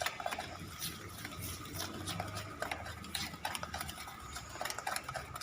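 Utensil stirring thick muffin batter in a bowl, with irregular clinks and scrapes against the bowl's side.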